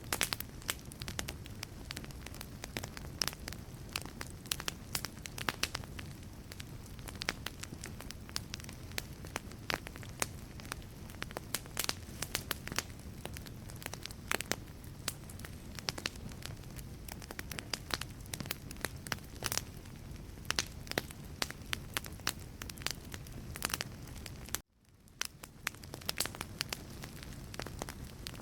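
Wood fire burning in a fireplace, crackling with frequent sharp pops over a low steady rumble. Near the end the sound cuts out for a moment and fades back in.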